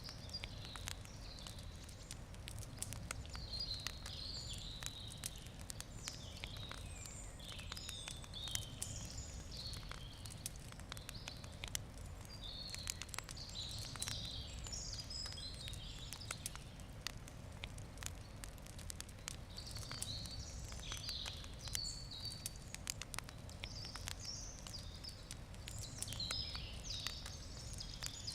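Wood campfire crackling, with frequent sharp pops throughout, while small birds chirp and twitter in bursts. A low steady rumble runs underneath.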